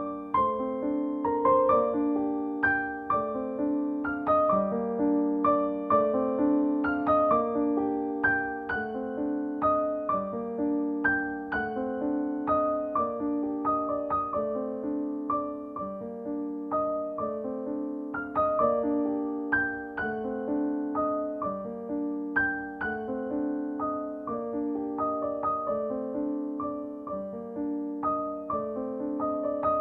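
Gentle piano music: a steady run of single struck notes and chords, each ringing and fading before the next.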